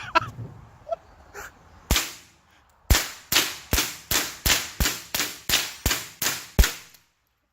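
A semi-automatic .22 LR rifle, a Ruger 10/22, firing about twelve shots. One shot comes about two seconds in, then after a short pause a rapid string of about eleven at roughly three a second.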